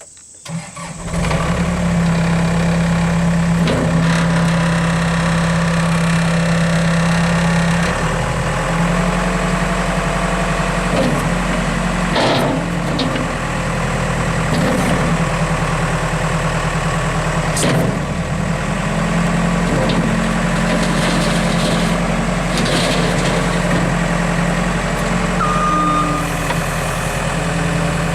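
Case 450CT compact track loader's diesel engine starting within the first second, then running steadily, its note shifting about eight seconds in, with a few short knocks. Near the end its backup alarm beeps twice.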